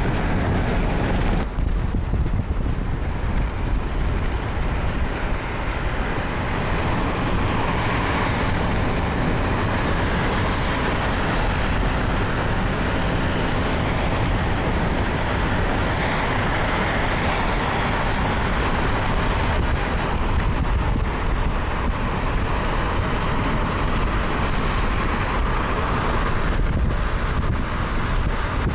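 Steady road noise of a car driving, with a low rumble and some wind.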